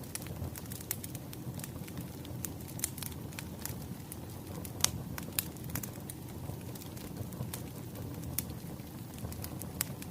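Wood fire burning, with a steady low rumble and scattered sharp pops and crackles; a couple of louder pops come about five seconds in.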